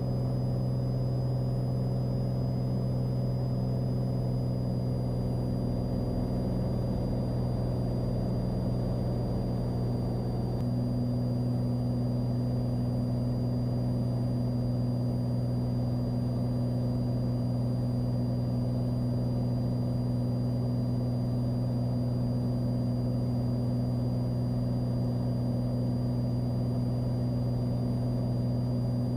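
Cessna 182's piston engine and propeller droning steadily in the climb, heard inside the cockpit, with a thin steady high whine over it. One note in the drone grows stronger about ten seconds in.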